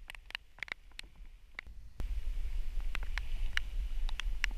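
Raindrops tapping irregularly on the camera housing in a downpour, a scatter of sharp little ticks. From about two seconds in, a steady low rumble of wind on the microphone joins them.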